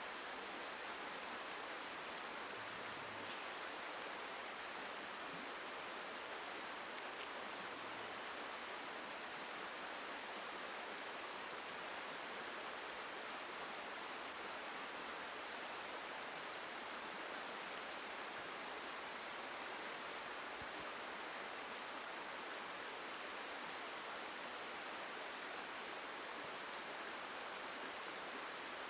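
Steady rushing of a river's flowing water, with a few faint ticks early on.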